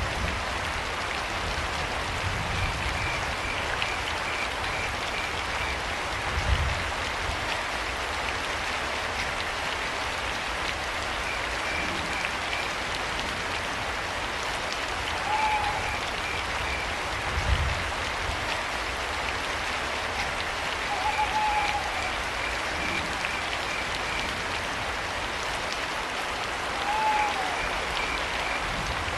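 Steady rain with crickets chirping in short trains and three short owl hoots in the second half. Two low thuds, the loudest sounds, come about a third and two-thirds of the way through.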